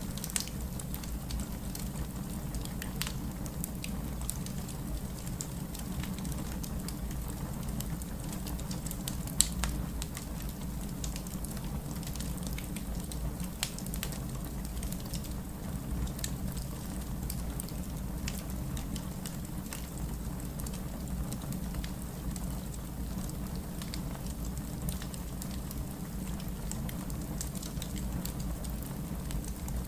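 Wood fire burning in a fireplace: a steady low rumble with irregular crackles and small pops, one sharper pop about nine seconds in.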